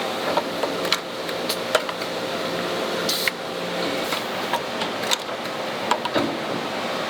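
Factory machinery running with a steady hum, with scattered light clicks and clinks of parts, and a short hiss about three seconds in.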